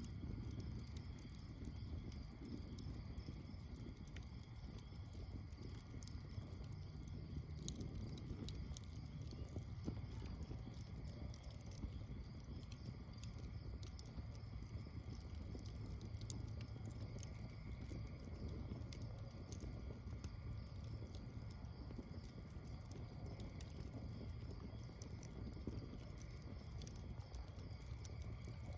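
Campfire crackling, with scattered small pops over a steady low rumble.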